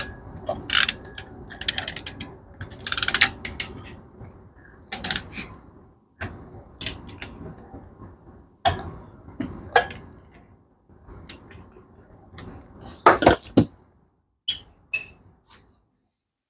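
Torque wrench ratchet clicking in short rapid runs, with handling knocks between, as the flywheel bolts are tightened in a cross pattern at the 15 stage.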